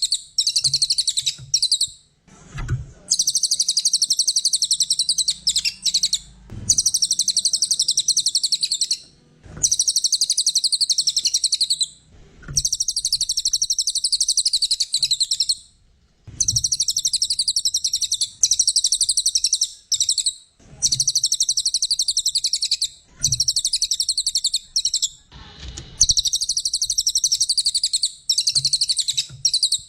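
Brown cililin bird singing a fast, high-pitched chattering song in bouts of two to four seconds with short pauses between them, with faint low knocks in some of the pauses.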